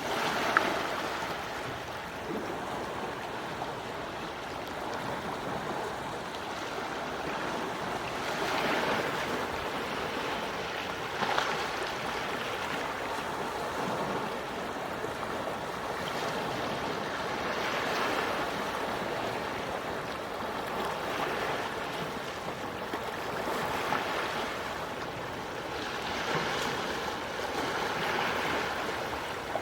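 Quiet sea waves washing onto the shore: a soft rush of water that swells and ebbs every few seconds, with brief splashes.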